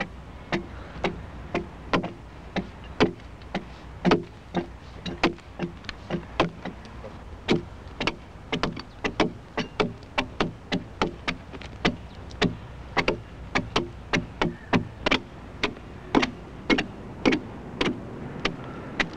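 Axes chopping into a raw oak log, sharp strikes about two a second in an uneven rhythm: the protruding wood is being hewn down close to the marked line before the final smoothing with the broadaxe.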